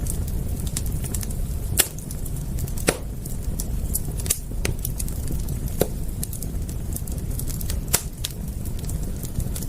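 Wood fire crackling: irregular sharp pops and snaps, a few louder ones among many small ticks, over a steady low rumble.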